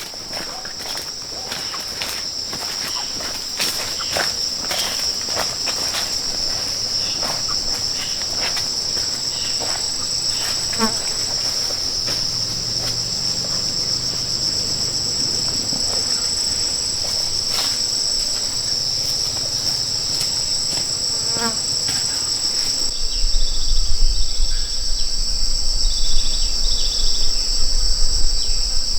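Insects in the forest calling in a steady, shrill, high-pitched chorus, with scattered light knocks in the first half and a low rumble joining for the last few seconds.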